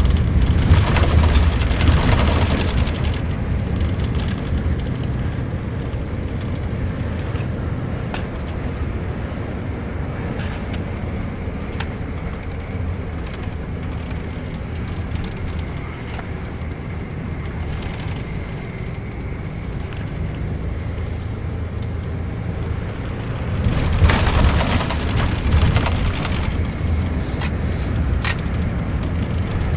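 Scania K410iB double-decker coach's six-cylinder engine droning steadily with road noise while under way. It swells louder with a rush of noise near the start and again about three quarters of the way through.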